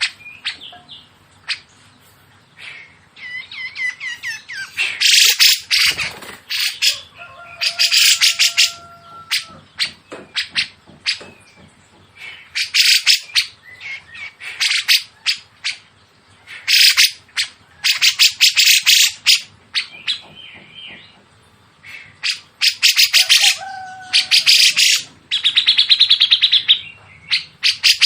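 Songbird calls from a masteran recording of cucak jenggot and small siri-siri: short, harsh, rapid rattling bursts repeated again and again with pauses between, and a few thin, level whistled notes in between.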